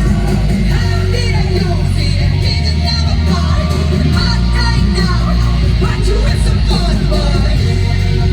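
Live rock music over a concert sound system: heavy pounding bass under a yelled, half-sung lead vocal.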